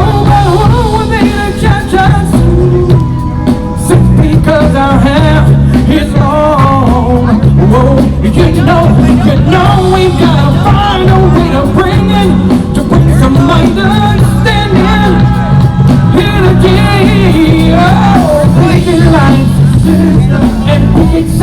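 Live band playing a song with a singing voice and a steady beat and bass line.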